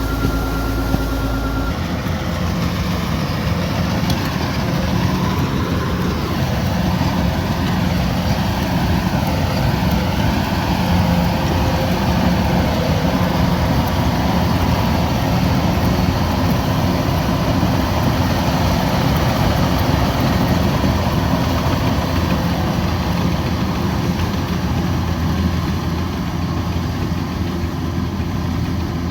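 Kubota DC105X combine harvester running steadily while harvesting rice.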